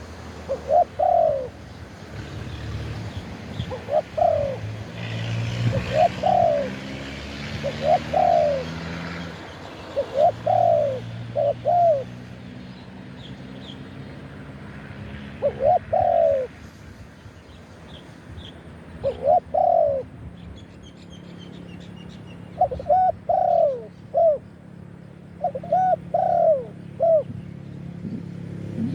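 Spotted dove cooing in repeated short, arching coos, some single and some in quick twos and threes. Faint chirps of other birds sit higher up, over a low steady hum.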